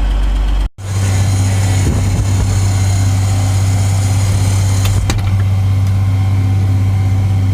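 Tractor engine running steadily at an even drone while driving through a wet hayfield; the sound cuts out for an instant under a second in and the drone resumes, with a couple of faint knocks.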